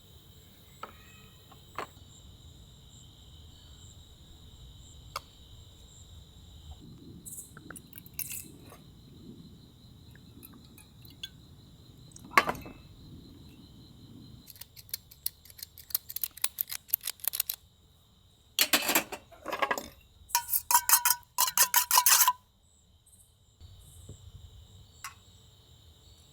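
A steady high-pitched insect chorus of crickets. Over it come scattered sharp clicks, then from about fifteen seconds in several quick rattling bursts of something being handled, the loudest near the end.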